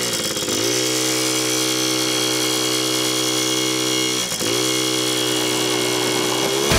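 Small dirt bike engine revving up and held at high revs. The pitch dips once about four seconds in and climbs back, then the sound cuts off abruptly near the end.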